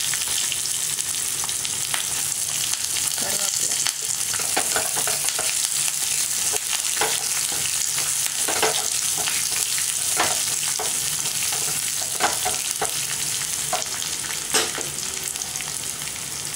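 Chopped onions, curry leaves and tempering spices (chana dal, peppercorns) sizzling in hot oil in a small pan: a steady frying hiss. Short knocks and scrapes come every second or so as they are stirred.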